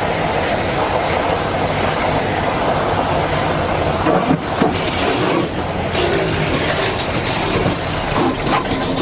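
Airplane noise during an emergency landing: a loud, steady rumble with scattered rattling and clatter.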